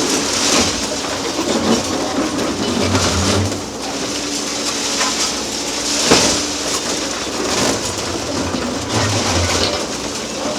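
Demolition excavator at work: its diesel engine runs steadily under constant clattering and grinding of concrete and steel being broken up, with a sharp impact at the start and another about six seconds in.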